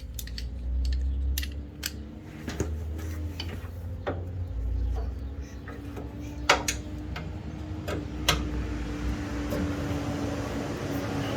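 Hand tools clinking and clicking against metal as the rear bumper bolts of a Jeep Comanche pickup are worked with a socket and ratchet. The clinks are irregular, two of them sharper about two-thirds of the way through, over a steady low hum.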